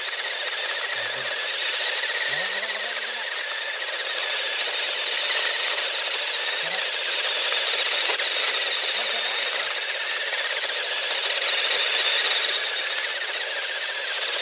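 Small electric motor whirring steadily.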